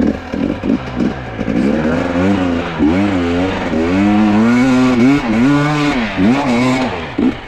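Two-stroke enduro dirt bike engine revving hard under load on a steep hill climb, its pitch rising and falling again and again as the throttle is worked in low gear. It is loudest about two-thirds of the way through and drops away just before the end.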